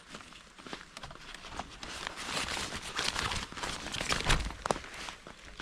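Irregular rustling and light knocks, with a busier stretch from about two seconds in.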